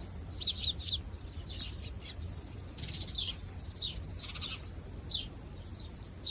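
Small birds chirping: many short, sharp chirps, some in quick runs of two or three, with brief gaps between.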